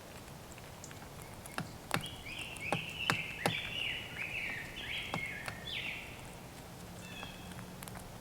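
Blue jay giving a run of about eight harsh jeering calls in quick succession, with several sharp clicks among them.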